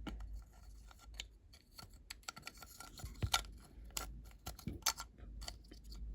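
Irregular small clicks and light scrapes of a seat being tried into a diecast metal toy van body during reassembly, with the sharpest click about three seconds in, over a steady low hum.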